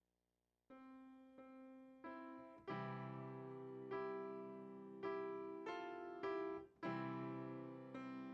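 Slow solo piano music: held chords struck one after another, roughly once a second, starting just under a second in.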